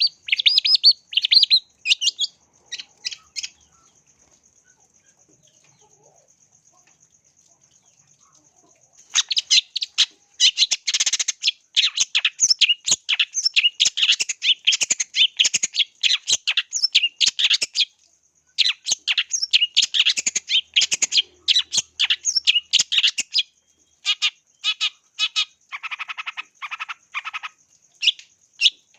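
Long-tailed shrike (cendet) singing in fast chattering runs of short, sharp calls. It stops for a few seconds early on, then starts again in a long, dense volley, with a lower-pitched run of calls later. A thin, steady high tone runs underneath.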